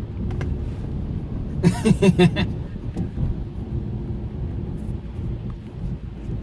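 Steady low rumble of a car driving, heard inside the cabin. A brief voice sounds about two seconds in.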